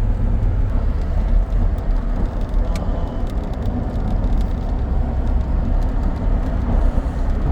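Road and engine noise inside a moving vehicle's cabin: a steady low rumble with a haze of tyre and wind noise and a few faint rattles.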